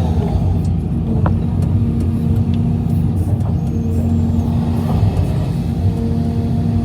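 Heavy diesel engine running steadily, a low drone with a few faint clicks over it.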